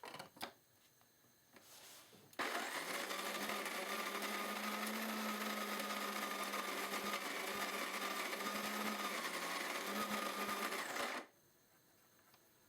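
De'Longhi KG79 burr coffee grinder's motor running for about nine seconds, a steady hum with a whine above it. It starts about two seconds in, after a few clicks, and cuts off suddenly.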